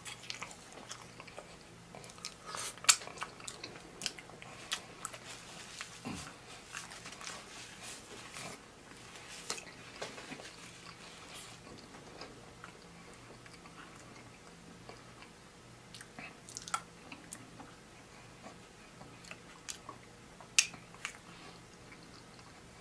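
Close-up chewing and mouth sounds of someone eating Wingstop voodoo fries (loaded fries), with scattered sharp clicks, the loudest about three seconds in and near the end.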